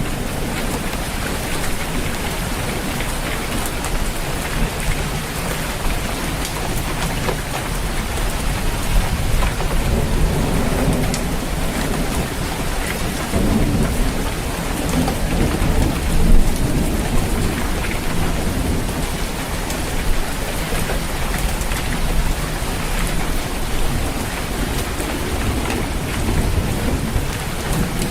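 Steady heavy rain falling on a roof, with low thunder rumbling underneath that swells and fades through the middle.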